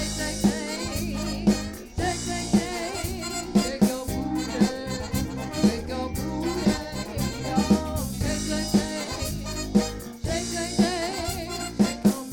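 Live band music: a steady beat with a drum hit about twice a second under wavering melody lines.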